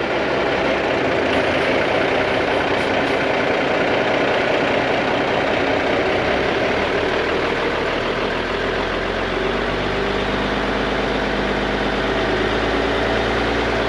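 M929 military dump truck's diesel engine running steadily as the truck pulls forward with its bed being raised by the PTO-driven hoist to dump a load of brush.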